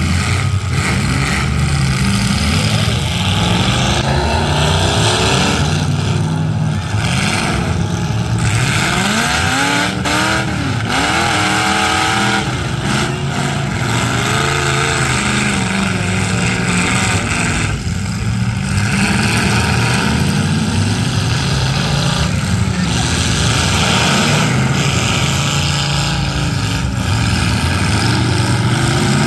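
Several demolition derby car engines running and revving at once, their pitches rising and falling as the cars accelerate and back off.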